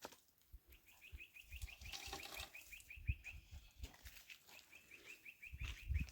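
A small bird calling in two rapid runs of short high chirps, about eight a second, with a few low thumps alongside.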